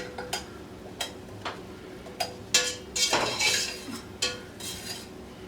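A spoon stirring vegetables sautéing in butter in a pot, knocking and clinking against the pot several times, with a longer scrape about three seconds in.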